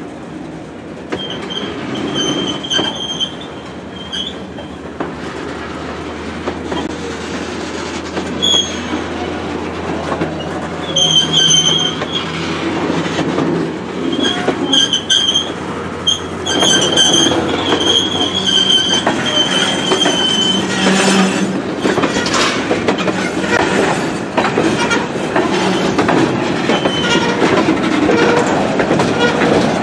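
A train rolling on steel rails, its wheels squealing again and again in a high whine over a steady rumble and clatter of wheels on the track. The squealing fades out around two-thirds of the way through while the rumble grows louder.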